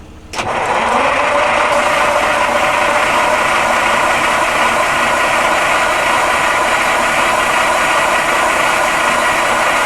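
A Detroit Diesel 6V92 two-stroke V6 diesel in an old Ford 9000 truck fires suddenly about a third of a second in, rising in pitch as it catches. It then runs loud and steady with a rattle, on its first start-up.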